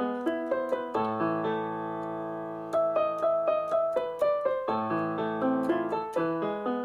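Background piano music: a melody of struck notes over held chords, pausing on a sustained chord about a second in before the notes pick up again near three seconds.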